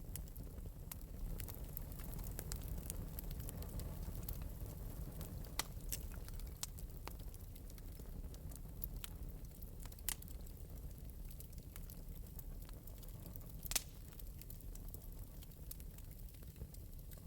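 Wood fire burning steadily in an open metal fireplace, with a low rumble and scattered small crackles. Three louder pops stand out, about six, ten and fourteen seconds in.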